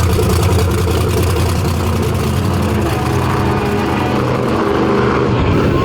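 Monster truck engine running steadily at low revs.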